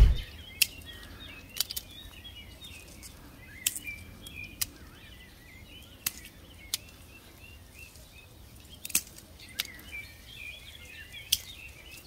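Small birds chirping continuously, with about nine scattered sharp clicks.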